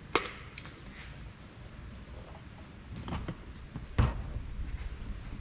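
Plastic quart oil bottle being handled and poured into an aircraft engine's oil filler tube, left to drain on its own. A sharp click just after the start and a louder knock about four seconds in, with faint low rumbling between.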